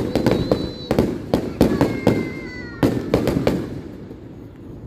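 Fireworks going off in rapid cracks and pops, with a thin whistling tone that falls in pitch about two seconds in. The crackling dies down near the end.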